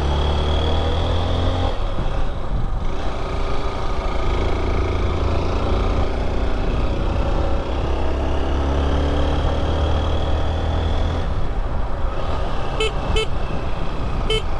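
Motorcycle engine running under way, its pitch gliding up and down with speed, over rushing road and wind noise. Near the end, three short horn beeps sound.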